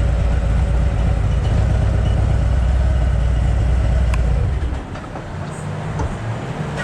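Harley-Davidson Ultra Limited's V-twin engine running with a deep, steady rumble that drops away about two-thirds of the way through, leaving a quieter low hum.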